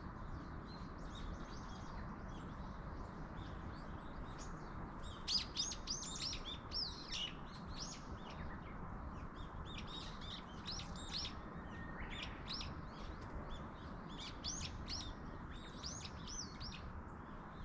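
Small birds chirping and twittering in quick runs of short high notes, busiest in a few clusters, over a steady low background hiss.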